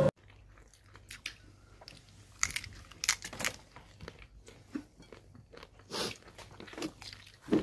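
Eating sounds: scattered crunches and chewing with sharp clicks. The louder ones come about two and a half, three and six seconds in, and the loudest comes near the end.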